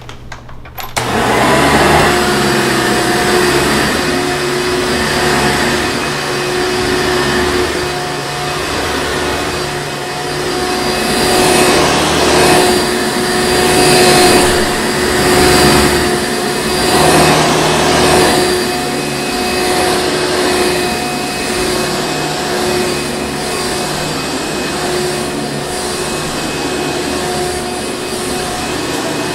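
Hoover Encore Supreme vacuum cleaner switching on about a second in, then running with a steady motor hum. Through the middle stretch the noise swells and fades about once a second before settling back to an even run.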